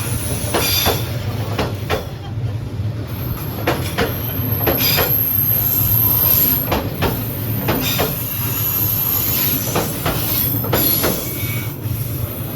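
Train passing close by: a steady low rumble with wheels clacking over rail joints and a high, thin wheel squeal through the middle.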